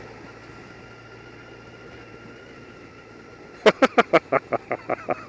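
Steady running and road noise from the touring motorbike, picked up by the rider's camera microphone. About three and a half seconds in, a quick run of loud, sharp clicks starts, about six a second, and continues to the end.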